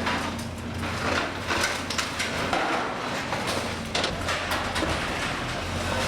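Building demolition: a heavy machine's engine runs steadily under irregular crunching and scraping of debris being torn down.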